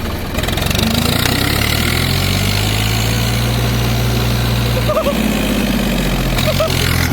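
Zetor 4911 tractor's three-cylinder diesel engine revving up over the first couple of seconds and running hard under load, then dropping back about five seconds in, with a steady hiss over it.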